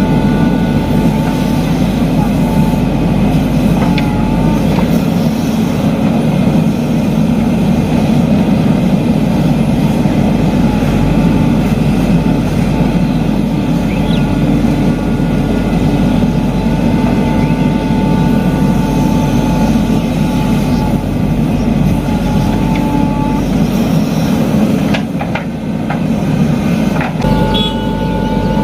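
Diesel engines of heavy machinery running steadily at work, with a thin high whine that comes and goes.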